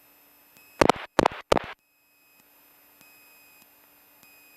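Three quick, loud radio blips about a second in, over a faint steady intercom hiss: a microphone keyed three times on the airport radio frequency, the click sequence used to bring up the automated airport advisory.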